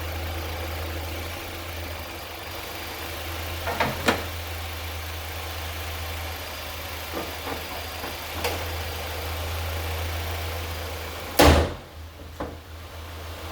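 Nissan Altima engine idling steadily with fresh oil, with a few light knocks. A loud slam comes near the end, after which the engine sound is much fainter.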